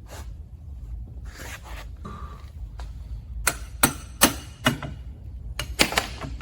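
Metal parts clinking and knocking together as a spacer and keyed parts are worked onto a trike's rear axle: about seven sharp metallic taps, some with a brief ring, from about three and a half seconds in.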